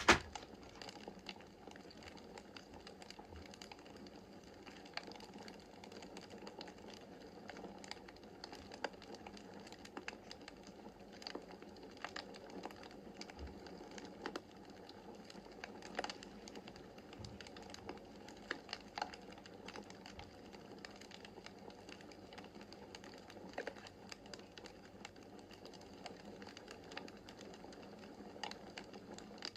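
Wood fire crackling in a fireplace: irregular sharp pops and snaps over a soft steady hiss, with one loud snap right at the start.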